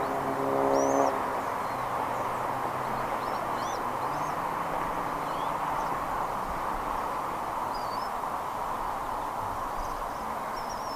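Faint, short, high bird chirps scattered through a steady rushing background noise, with a brief low, pitched tone in the first second.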